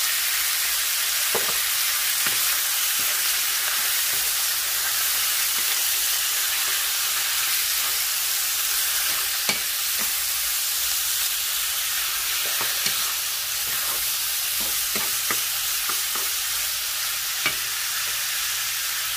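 Chicken pieces sizzling steadily in very hot oil in a nonstick frying pan, with a wooden spatula now and then knocking and scraping against the pan as they are stirred.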